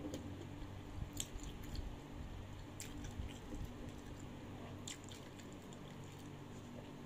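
A person chewing a mouthful of food close to the microphone, with soft wet mouth sounds and a few sharp clicks.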